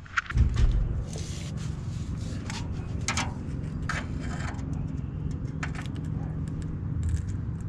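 A freshly cut sheet-metal skid plate being handled and offered up for a test fit, giving a few light knocks and clatters, about half a dozen spread out, over a steady low hum.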